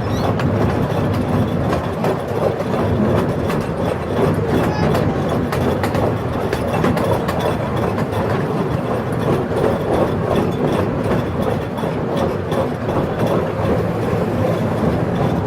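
Small ride-on amusement train running steadily, its engine rumbling under a continuous rattle and clatter from the passenger cars.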